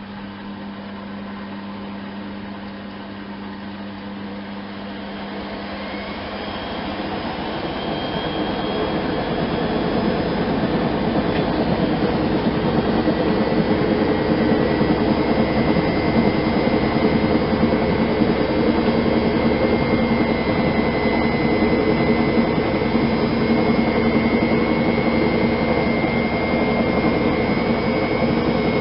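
Miele Softtronic W 204 front-loading washing machine's drum speeding up into a spin, its whine rising in pitch and growing louder over several seconds, then spinning steadily at high speed with a high whine.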